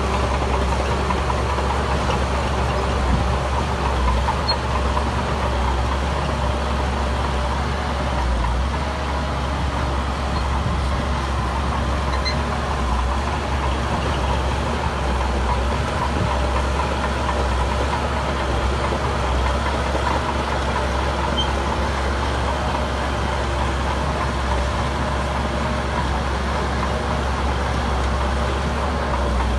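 Heavy construction-machine diesel engine running steadily, with a constant deep rumble.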